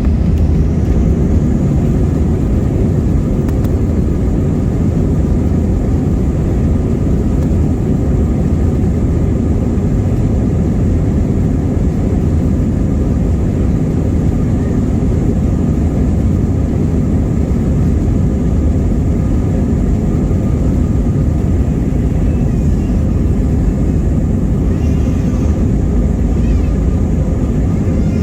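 Jet airliner cabin noise: the engines and airflow make a loud, steady low rumble heard from inside the passenger cabin, with a faint steady high whine over it.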